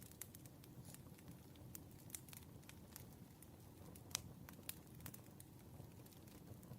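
Campfire crackling: irregular small snaps and pops of burning wood over a soft, low rumble of the flames, with one sharper pop about four seconds in.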